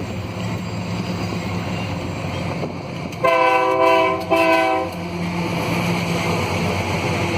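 Train horn, most likely on a diesel locomotive, sounding two blasts: a longer one about three seconds in and a short one right after. Under it a steady low engine drone runs on, and a rushing rail noise builds after the horn.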